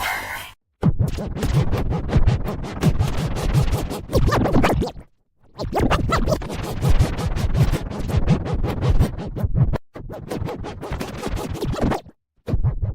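Electronic music with a fast, stuttering, scratch-like texture, broken by short silences about half a second in, around five seconds in, near ten seconds and about twelve seconds in.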